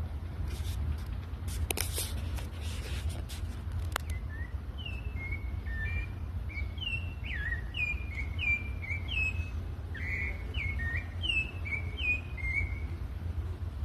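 Sabiá thrushes singing: a run of short, clear whistled notes, many dropping in pitch, from about four seconds in until near the end, over a steady low rumble. A few clicks and rustles come in the first four seconds.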